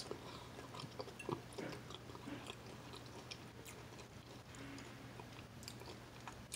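Faint chewing and small wet mouth clicks of a person eating soft scrambled eggs and croissant, over a low steady hum.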